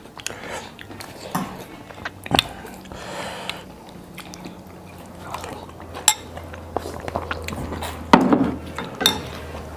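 Eating at the table: metal cutlery clinks sharply against a dish a few times, with soft chewing and handling noise between.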